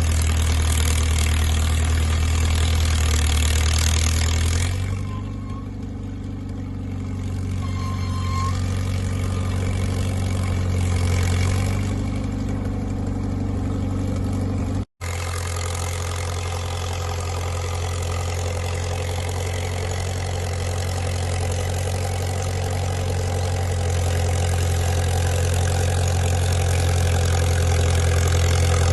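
Caterpillar crawler dozer's diesel engine running steadily with a low, even drone. It grows somewhat quieter for several seconds about a fifth of the way in, and the sound cuts out for an instant about halfway through.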